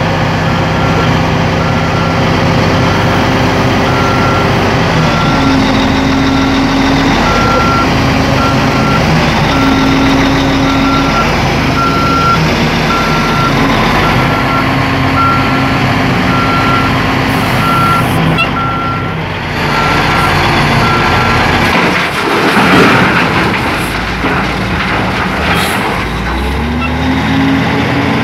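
Caterpillar 980F wheel loader's diesel engine running, heard from inside the cab, with its reversing alarm beeping about once a second. The beeping stops about three-quarters of the way through, and a louder, noisier stretch follows.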